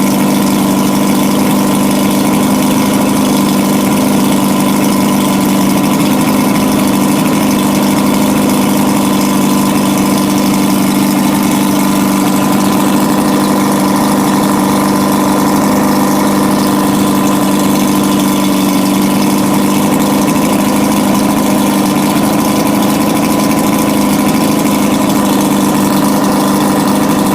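A 2004 two-stroke 200 hp V6 outboard motor idling steadily, at an even pitch and level.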